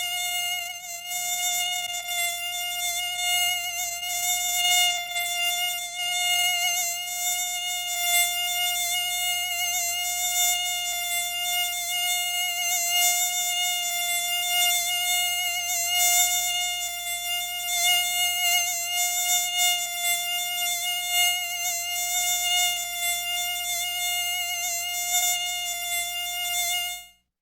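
A mosquito in flight: its beating wings make a continuous high whine at one steady pitch, swelling and fading a little as it moves. The whine cuts off abruptly near the end.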